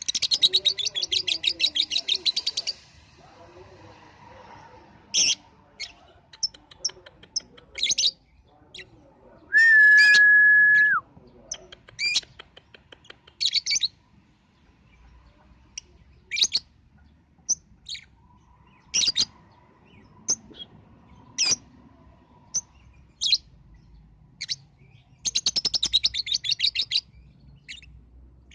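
Lovebird chirping, used as a lure call to set young birds chirping: a fast rattling trill at the start and again near the end, with scattered short sharp chirps between. About ten seconds in, a loud steady whistle-like tone holds for just over a second.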